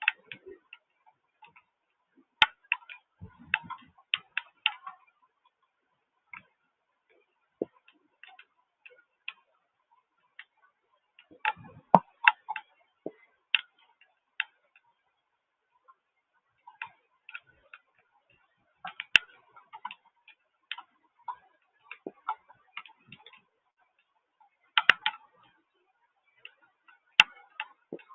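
Raindrops or drips striking a hard surface close to the microphone. They make scattered, irregular ticks and taps that come in small clusters, with near-silent gaps between them.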